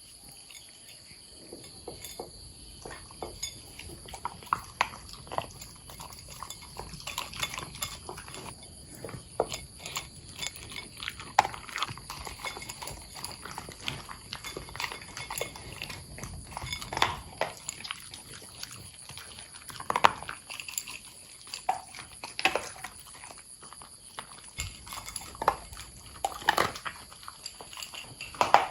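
Corgis eating dry dog food with freeze-dried toppings: many irregular crunches and chewing clicks as they bite and chew.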